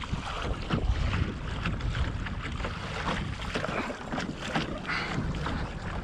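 Kayak moving through the sea, with water splashing and slapping against the hull in irregular bursts over steady wind rumble on the microphone.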